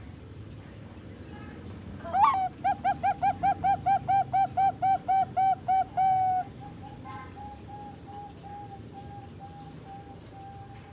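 Young Bangkok-bred zebra dove (perkutut) singing: a rising opening note, then a fast, even run of about fifteen cooing notes, about four a second, ending on a longer held note. Fainter cooing notes follow at the same pitch, over a low steady hum.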